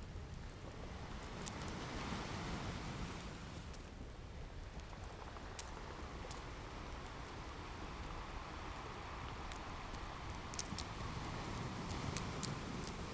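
Ocean waves washing in a steady swelling rush with a low rumble, mixed with a crackling wood fire whose sharp pops come scattered, more often in the last few seconds.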